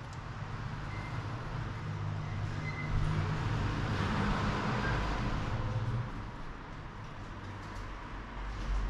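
A motor vehicle running: a steady engine rumble with road or running noise that swells between about three and six seconds in, then drops back.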